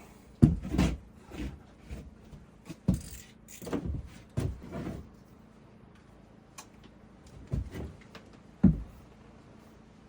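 Irregular wooden knocks and thumps from carpentry work, about a dozen close together in the first half and a few more spaced out after, the sharpest near the end.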